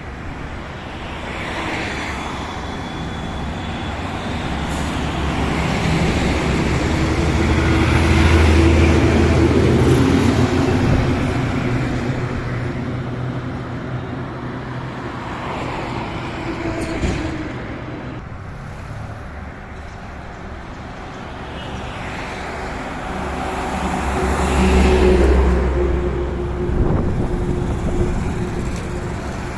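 Heavy truck engines running with road noise on a highway, swelling loudest about a third of the way in and again near the end as trucks pass close by.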